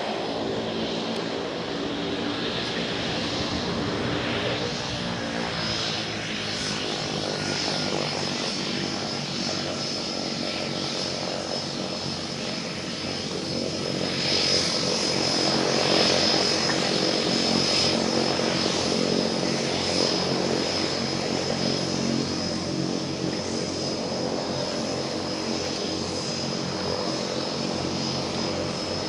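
Light propeller airplane engine running steadily with a thin high whine over it, a little louder about halfway through.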